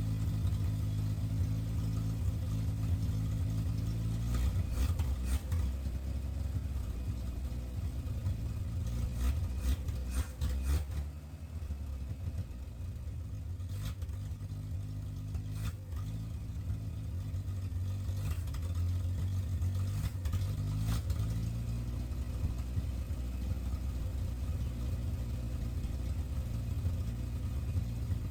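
1968 Chevy C20's inline-six engine idling on its freshly rebuilt Rochester Monojet carburetor during a rough idle tune, the idle wavering and dipping about eleven seconds in. A few sharp clicks sound over it.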